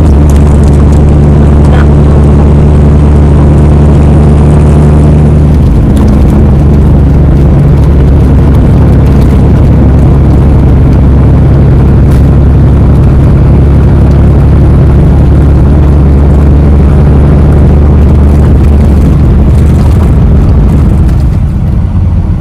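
Heavy truck's diesel engine running steadily on the road: a loud, constant low drone with road noise over it.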